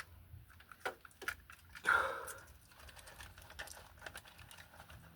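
Handling noise from work on wiring: scattered small clicks and rustles, with one louder rustle about two seconds in.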